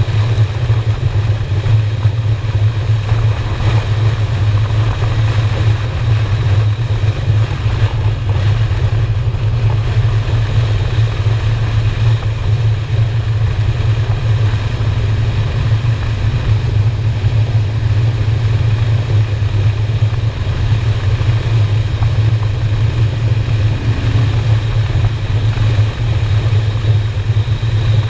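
V-twin cruiser motorcycle engine running steadily at cruising speed, with wind noise over it.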